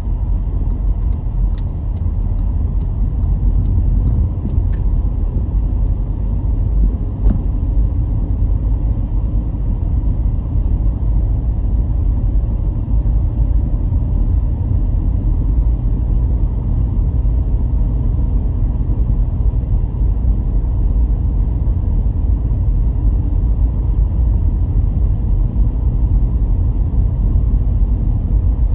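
A car driving along at a steady pace: a constant low rumble of tyres on the road and the engine, with a few faint ticks in the first several seconds.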